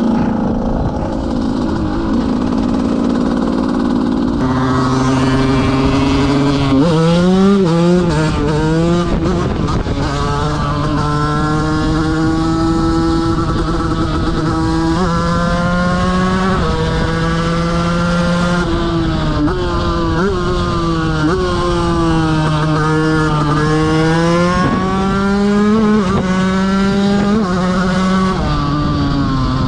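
KTM 125 motorcycle engine running hard on the road, its pitch climbing with the revs and dropping at each gear change. There are several quick rises and drops a quarter of the way in, then long pulls that rise and ease off slowly.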